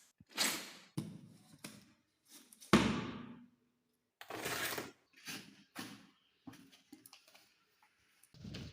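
Handling noises: a string of short scrapes and rustles, with one heavier thump about three seconds in.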